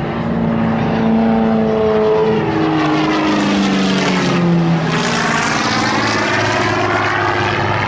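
Propeller-driven aerobatic aircraft of the Halcones display team flying past low, the engine note dropping in pitch as they go by about halfway through.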